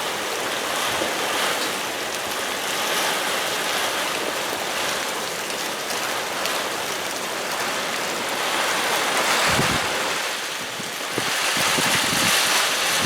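Heavy rain falling steadily as a dense hiss. Over the last few seconds it is joined by short low buffets of wind on the microphone.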